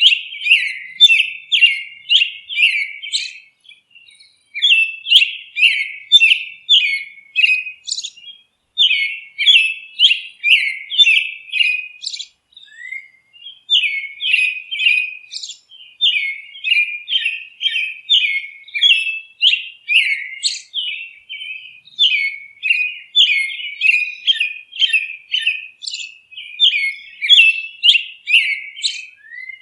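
Songbirds chirping in quick, nearly unbroken runs of short, high, downward-sliding notes, several a second, with a couple of brief pauses.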